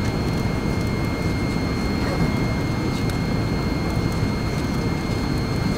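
Jet airliner cabin noise in flight: a steady low rumble and hiss with a thin, steady high whine.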